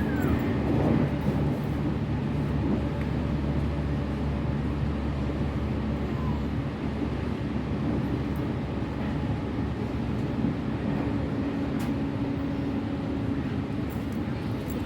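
Steady running noise inside the passenger car of a Tokaido Line train: a low rumble from the wheels on the track with faint steady hums underneath.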